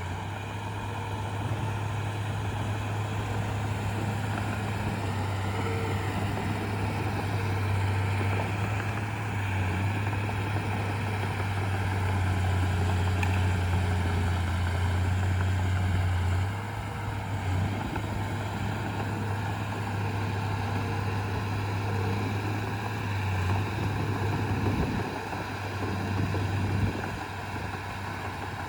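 Diesel engine of heavy earthmoving machinery running with a steady low drone. The drone drops away briefly about sixteen seconds in and again near twenty-five seconds, as the load on the engine changes.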